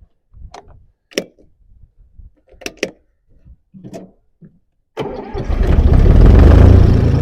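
A few short clicks and knocks, then about five seconds in a tractor's diesel engine cranks and starts, running loud right away.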